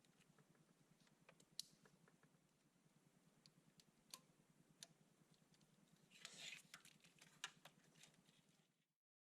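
Near silence: a faint low hum with a few scattered light clicks and a brief rustle about six seconds in. The sound cuts off completely near the end.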